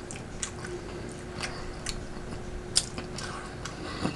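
A person chewing food: soft, wet mouth clicks and smacks at irregular spacing, about two a second, over a faint steady hum.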